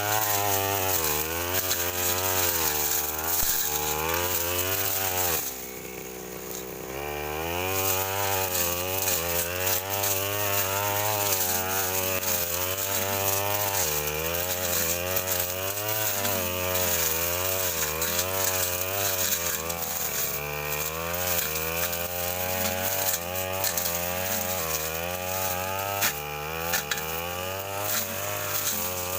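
Petrol brush cutter with a metal blade cutting through dense undergrowth, its engine speed rising and falling over and over as the blade bites. About five seconds in it drops back to idle for a second or two, then revs up again.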